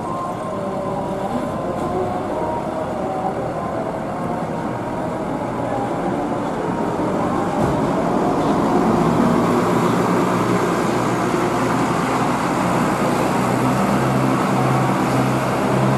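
A bus engine running, its low hum getting louder about halfway through and pulsing evenly, over a steady hiss of heavy rain.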